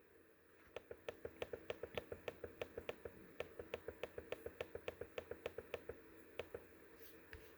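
A rapid run of small, even clicks, about five a second, then a few scattered ones near the end: a computer mouse scroll wheel turning notch by notch.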